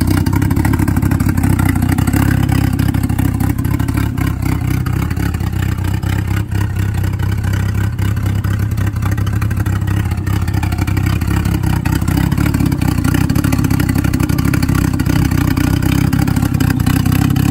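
Turbocharged Honda H22 2.2-litre four-cylinder DOHC VTEC engine running at a steady idle.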